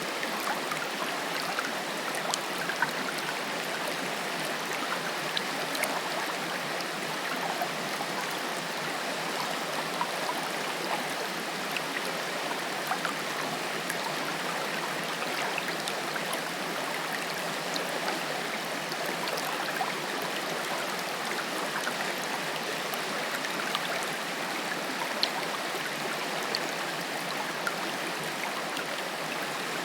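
Water of a forest waterfall splashing and rushing over rocks in a steady hiss, with small splashes and drips scattered through it.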